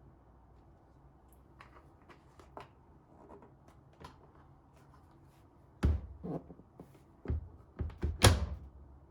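Light clicks and taps of household objects being handled, then a run of five or so loud knocks and thuds in the second half, like a cupboard or door being closed and things being set down.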